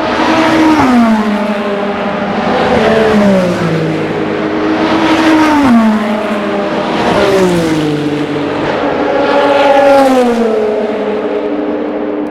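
Endurance racing cars passing at speed one after another, five in quick succession, each engine note dropping in pitch as the car goes by.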